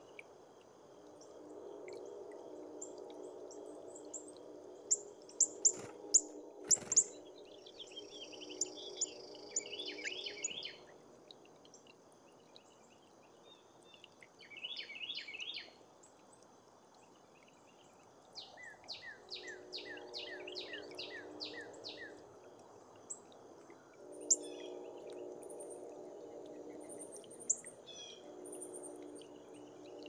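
Wild songbirds calling and singing: chirps, short trills, and a run of about a dozen quick descending notes. A few sharp cracks come about five to seven seconds in, and a low steady hum comes and goes underneath.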